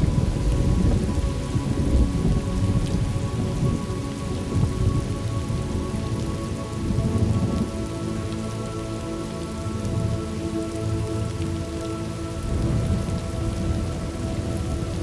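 Thunderstorm ambience: steady heavy rain with low rolling thunder rumbling through the first half and again near the end.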